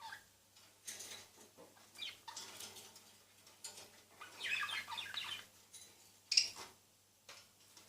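A pair of budgerigars chirping and chattering in short, irregular bursts, with the sharpest call near the end.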